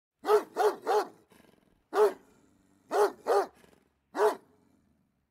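Dog barking seven times in short groups: three quick barks, a single bark, a pair, then one more.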